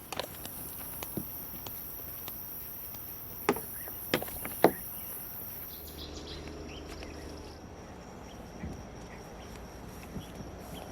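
Outdoor campsite background noise with a few scattered sharp knocks or clicks; the three loudest come close together about halfway through. A high hiss cuts off suddenly just after that.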